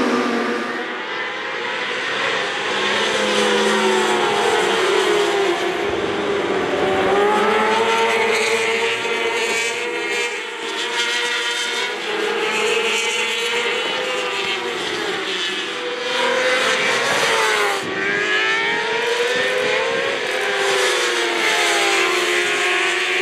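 Several 600 cc four-stroke J-GP2 racing motorcycles running hard together, engine pitches climbing and dropping repeatedly as the riders shift gears and brake into corners.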